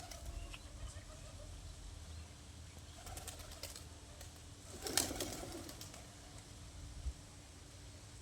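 Doves cooing, with a louder burst of cooing and wing clatter about five seconds in.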